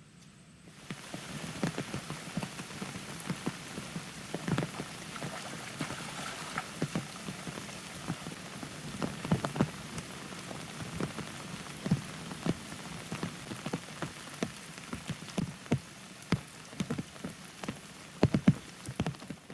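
Heavy rain falling steadily, with many loud, irregular drops striking close by. It starts suddenly about a second in and cuts off abruptly at the end.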